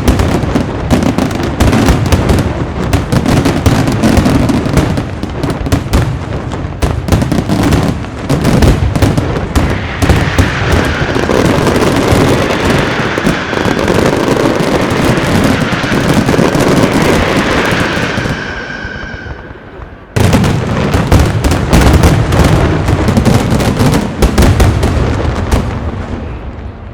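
A professional night fireworks display: a dense barrage of aerial shell bursts and crackling bangs in rapid succession. A high whistle rings over the bursts for a few seconds past the middle. The barrage breaks off abruptly about two-thirds of the way through, then resumes and fades near the end.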